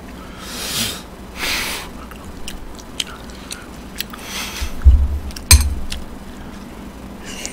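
Close-miked eating of pork galbi: chewing and wet mouth noises with short hissy bursts, and a few light clicks of metal tongs. About five seconds in come two loud, low thumps close together.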